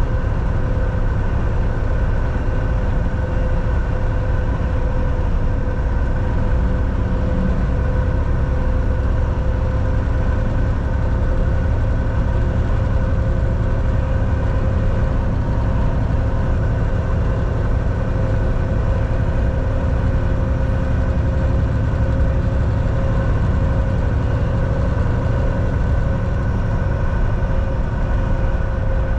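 Volvo VNL 760 semi-truck running down the road, heard from the driver's seat: steady low engine and road rumble with a constant drone.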